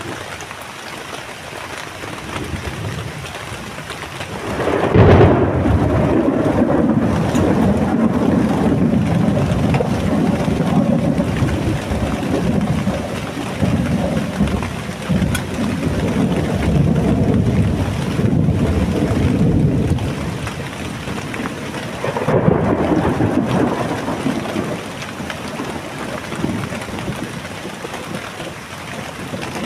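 Heavy rain falling steadily, with thunder: a loud rumble breaks about five seconds in and rolls on for some fifteen seconds, and a second peal comes about 22 seconds in.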